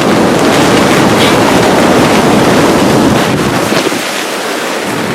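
Storm wind gusting hard against a hunting ground blind, a loud rushing roar with wind buffeting the microphone; the gust eases a little about four seconds in.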